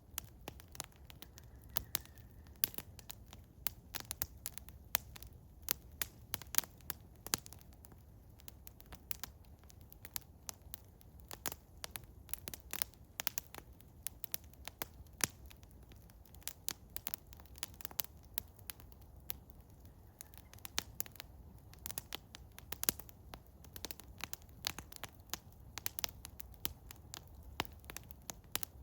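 Eastern hemlock wood fire crackling and popping, with many sharp irregular pops over a low steady rumble.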